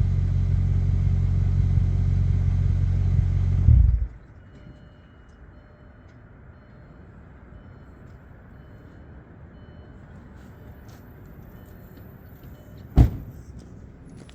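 Audi A8 4.2 V8 exhaust, with an X-pipe and Magnaflow mufflers, idling with a steady deep note that stops abruptly about four seconds in as the engine is shut off. After that there is only a low background, broken once near the end by a single sharp thump.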